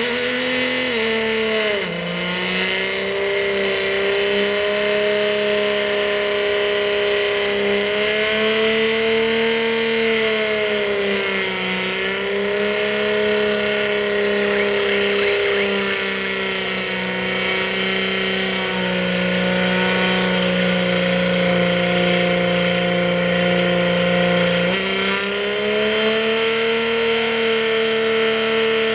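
Jaguar XF police car doing a burnout: its engine is held at high revs with the rear tyres spinning and screeching. The engine note stays high and steady, dipping and recovering a few times.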